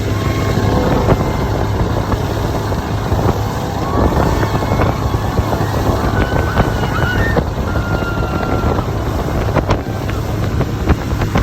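Motorboat engine running steadily, with wind buffeting the microphone and water rushing. Short high-pitched tones sound now and then over it.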